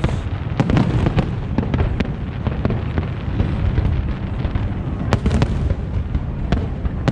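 Fireworks display going off continuously: a dense run of sharp bangs and crackles over a constant low rumble of shells bursting.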